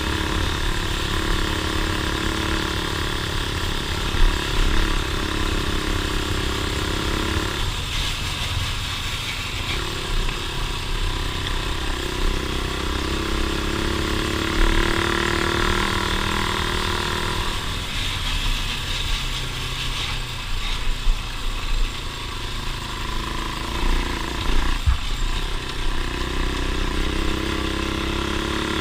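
Off-road vehicle engine running on a trail, its pitch rising and falling as it is throttled up and eased off several times, over a constant low rumble.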